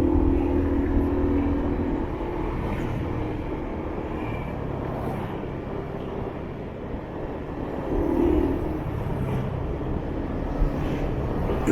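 Riding a motorbike in city traffic: the bike's engine running, with low rumble on the microphone and engine hums from other vehicles swelling and fading as they pass.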